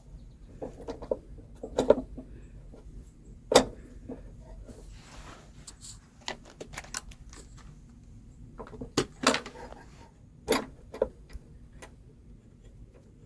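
Scattered clicks and knocks of small engine parts being handled and fitted, with a few sharper knocks, as the air cleaner assembly is put onto a Briggs & Stratton lawnmower engine.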